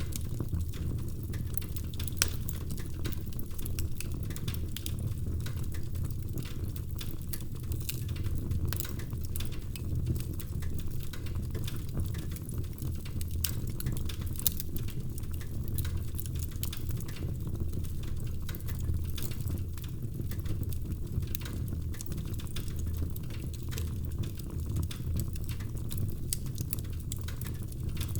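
Wood fire in a fireplace crackling: frequent small snaps and pops over a low, steady rumble of the flames, with a louder pop about two seconds in and another about halfway through.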